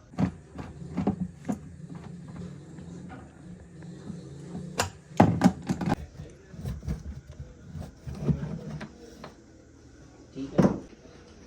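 Irregular knocks and clatter of hard objects being handled, loudest in a cluster about five to six seconds in and again near ten and a half seconds, over a low hum during the first half.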